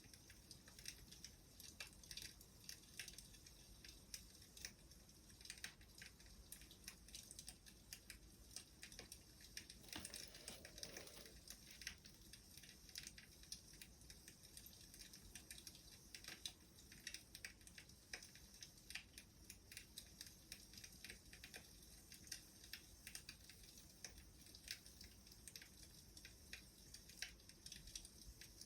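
Faint crackling of a wood fire: small irregular pops and snaps, with a slightly fuller, lower sound about ten seconds in.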